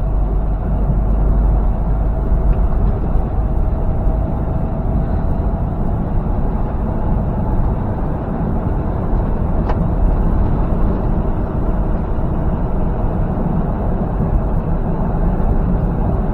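Steady low engine and road drone inside a semi-truck's cab while it drives on the interstate, with one brief click about ten seconds in.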